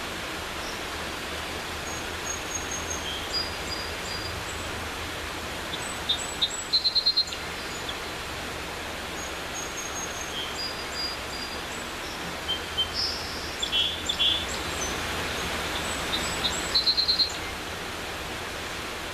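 Steady rushing of a mountain creek, with songbirds chirping over it. Two quick runs of rapid chirps stand out, about seven seconds in and again near the end, among scattered single notes.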